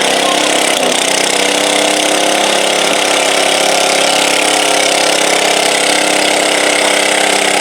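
Small single-engine garden tractor running steadily at a fairly constant speed, with a brief dip in pitch about a second in, while pulling a weighted stoneboat in a stock-class pull.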